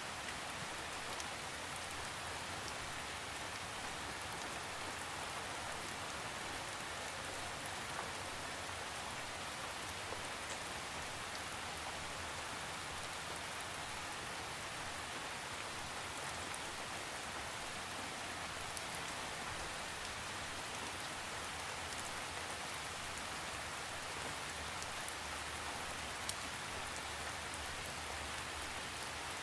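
Steady rain falling, an even hiss with scattered drop ticks, without thunder.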